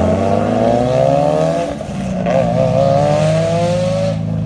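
Mitsubishi Lancer Evolution's turbocharged inline-four accelerating hard. Its pitch rises through one pull, breaks briefly about two seconds in as at a gear change, rises again, then cuts off abruptly near the end.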